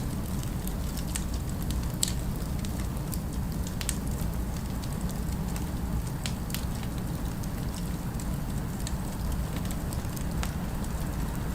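Fireplace fire crackling, with irregular sharp pops and snaps over a steady low rumble of flame, the loudest pop about two seconds in.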